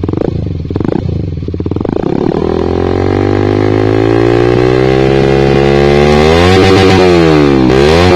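Honda CBR150R (K45) single-cylinder engine breathing through a Proliner TR1 long carbon full-system exhaust with no dB killer fitted. It gives a few short blips, then climbs steadily in revs for about four seconds. Near the end the revs dip sharply and climb again.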